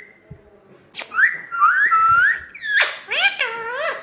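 Pet parrot whistling: a few rising whistled notes, then a quick run of notes that swoop up and down. There is a sharp click about a second in.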